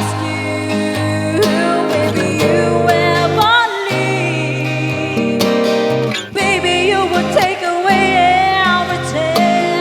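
A solo voice singing a slow pop ballad over acoustic guitar, holding and bending long notes.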